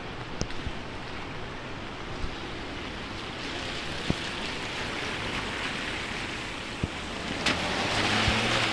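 Steady hiss of heavy rain and wind on a city street, with a few sharp taps. Near the end the hiss swells and a low engine hum comes in as a vehicle passes on the wet road.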